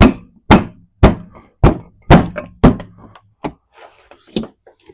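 A series of sharp thunks, about two a second for the first three seconds, then lighter clicks and knocks: the hard plastic of a truck headlight assembly being knocked and worked into place.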